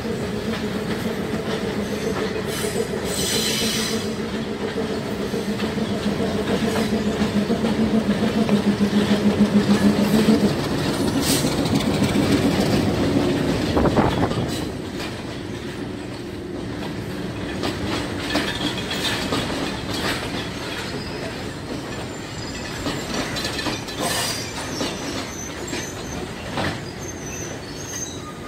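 Diesel passenger train passing close below: the locomotive's engine drones steadily, growing loudest about ten seconds in, then falls away as the coaches roll by with rumbling wheel noise and occasional sharp clatters over the rails and points.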